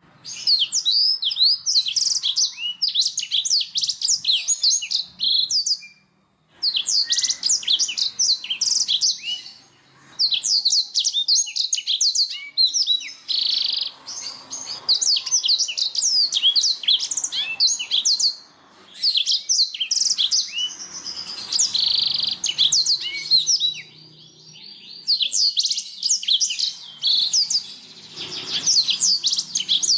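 Domestic canary singing long runs of rapid chirps and trills, broken by short pauses about six, ten and nineteen seconds in.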